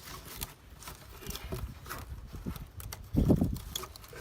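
Irregular knocks and clunks from working a plastic SnapJacket piling sleeve and its ratchet strap around a piling, with a louder dull thump about three seconds in.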